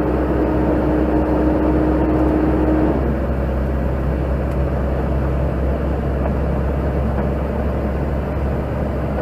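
Steady drone of a truck on the move, heard from inside the cab: low engine hum and road noise, with a steady whine during the first three seconds that dips and fades.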